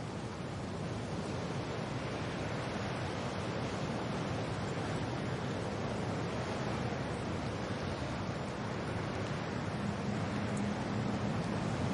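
Steady wind and rain: a dense, even rushing hiss that swells slightly in strength.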